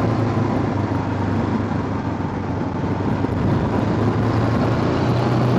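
Honda scooter engine running steadily at an even pitch while riding, under a constant rush of wind and road noise.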